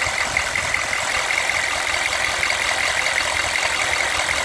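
1995 Chevy K3500's 6.5 L turbo-diesel V8 idling steadily.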